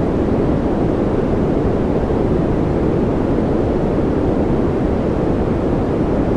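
Steady white-noise track: an even, unchanging rush, deep in tone with little treble.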